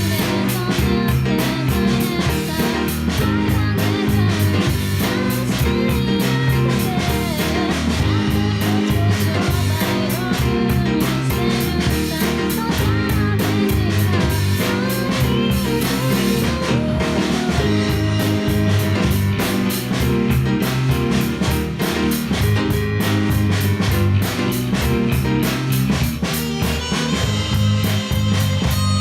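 A band playing an upbeat, jazzy pop-rock song: keyboard, bass guitar and drum kit.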